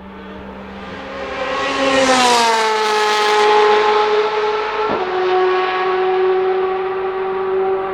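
Ferrari 458 GT2 race car's naturally aspirated 4.5-litre V8 at high revs, growing louder as it approaches and dropping in pitch as it passes. About five seconds in there is a sharp crack at a gear change, after which the engine holds a steady pitch.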